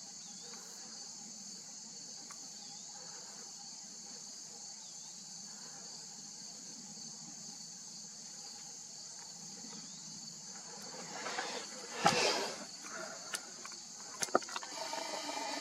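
Steady high-pitched buzzing chorus of insects. About twelve seconds in there is a brief louder rustle, followed near the end by a few sharp clicks.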